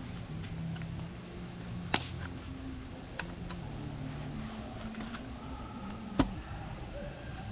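Two sharp knocks about four seconds apart, with a few lighter clicks between them, over a low steady hum.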